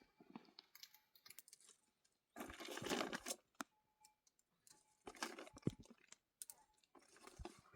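Faint, irregular rustling and crunching with small clicks, in two louder stretches of about a second each: handling or stepping on dry, brittle material.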